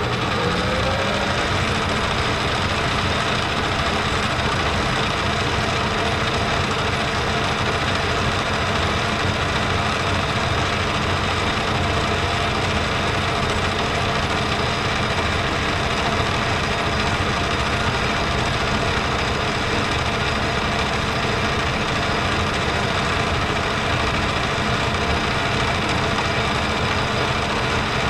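Metal lathe spinning up, its motor and spindle rising in pitch over the first second, then running steadily.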